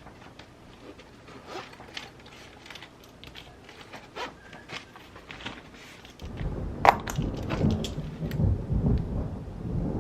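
Rain with a low rumble of thunder that swells in suddenly about six seconds in and keeps rolling, over scattered light ticks and rustles; one sharp click sounds just after the thunder starts.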